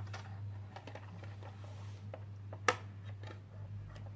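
Small plastic toy pieces being handled, with light scattered clicks and taps and one sharper click about two and a half seconds in, over a low steady hum.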